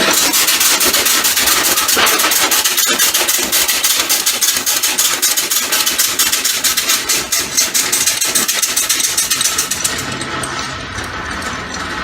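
Compressed-air engine running fast, its exhaust giving a rapid, even train of sharp puffs, about ten a second. About ten seconds in, the hiss at the top fades and it gets quieter.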